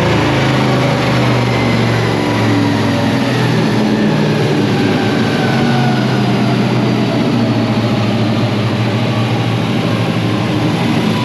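1961 Ford gasser truck's engine running loud and steady on chassis dyno rollers.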